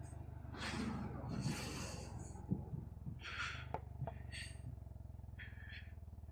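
Royal Enfield Classic 350's single-cylinder engine running steadily at cruising speed, heard as a low even hum, with several short hissing puffs of air over it.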